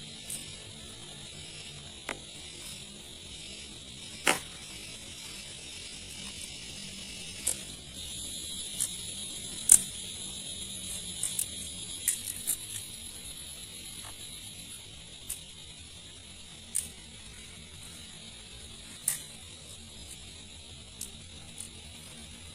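Steady rain hiss with irregular sharp taps, about a dozen, the loudest about halfway through.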